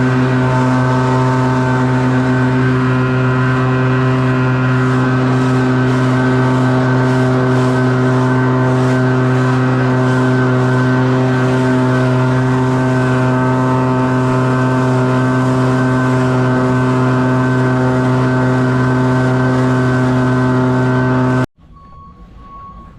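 Small gas engine of lawn-care equipment running steadily at full throttle, then cutting off suddenly near the end.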